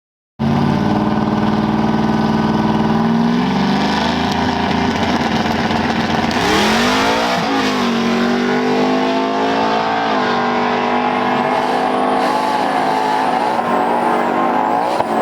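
A race vehicle's engine accelerating hard, its pitch climbing and then falling back several times.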